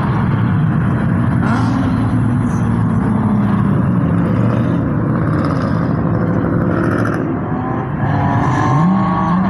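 Car engines running steadily, with one engine revving up, its pitch rising, near the end.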